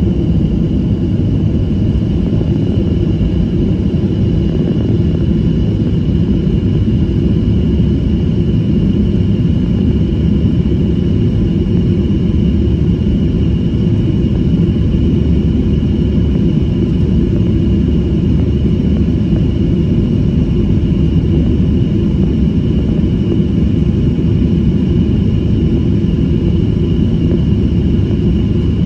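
Steady cabin noise of a Boeing 737 airliner in its climb: the deep, even rumble of the jet engines and airflow, with a faint steady high whine over it, heard from inside the passenger cabin.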